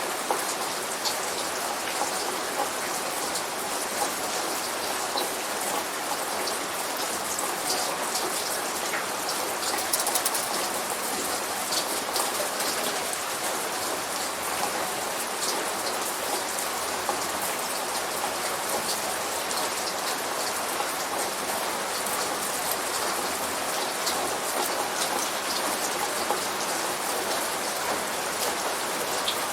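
Steady light rain falling, with many individual drops ticking on a hard surface; no thunder in this stretch.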